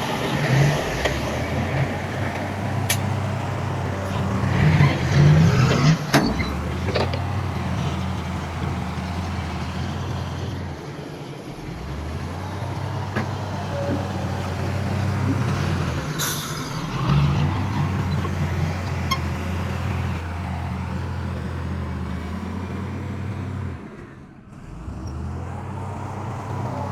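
Heavy diesel engine of earth-moving machinery running, its note dropping and picking up again several times. A few sharp metallic clanks, the loudest about six and sixteen seconds in.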